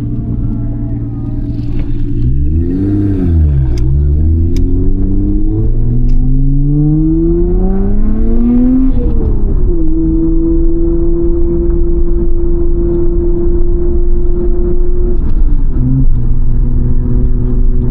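Car engine pulling away through the gears. There is a quick rise and fall in revs about two seconds in, then a long climb in pitch that drops sharply as it shifts up, a steady run at constant revs, and another drop near the end as it shifts again.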